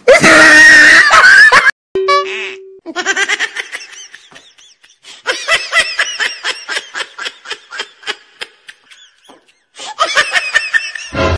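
A loud shrill cry, then after a short steady tone a long run of high giggling laughter in quick bursts, about four or five a second, ending in another loud burst of sound.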